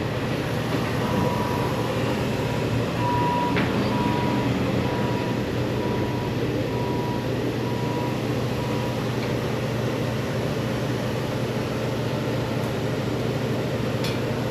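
Engine running steadily with a low hum. From about a second in until about nine seconds in, a high beep sounds about once a second.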